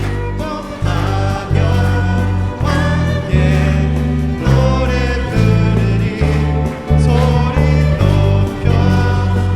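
Church praise team singing a worship song over a live band, with a prominent bass line moving note by note.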